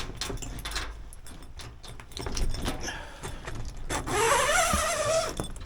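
Knocks, clicks and rattles of someone climbing into an aluminium boat's cab while handling the camera. About four seconds in comes the loudest sound, a rising, wavering squeal lasting just over a second.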